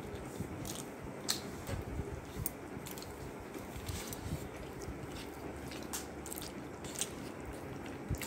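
A person chewing a mouthful of rice and bitter gourd eaten by hand, close to the microphone: irregular wet clicks and smacks of the mouth, the sharpest a little over a second in.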